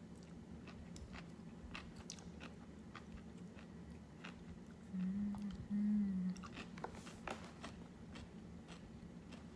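A person chewing a mouthful of crisp raw salad greens (spring mix) with many small crunches, mouth close to the microphone. About five and six seconds in come two short low hummed 'mm' sounds.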